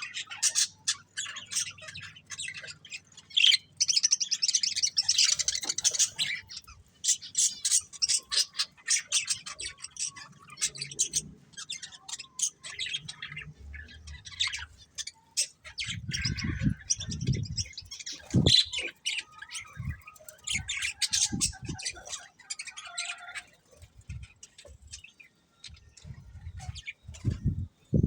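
Budgerigars chirping and chattering in quick, dense warbling runs, with a few low thuds around the middle and near the end.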